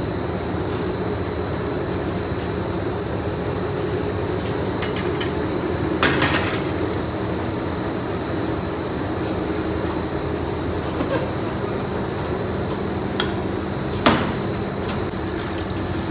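Factory machinery running steadily, a hum with a thin high whine over it, with two sharp metallic clanks, one about six seconds in and the louder one near the end.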